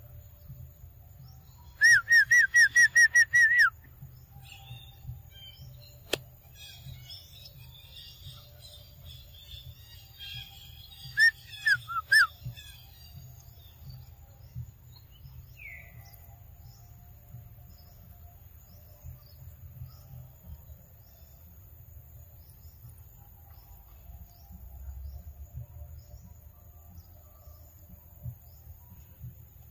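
A bird calling: a rapid run of about ten loud whistled notes, each falling in pitch, about two seconds in, then fainter chattering notes and three more loud falling notes about eleven seconds in. A single sharp click about six seconds in.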